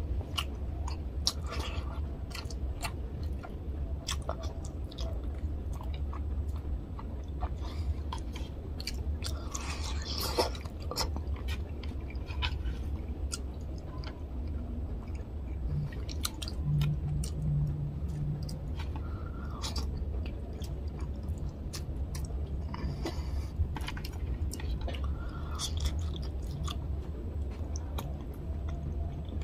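Close-miked chewing of a mouthful of fish curry and rice, with many short, sharp wet mouth clicks scattered throughout. A steady low hum runs underneath.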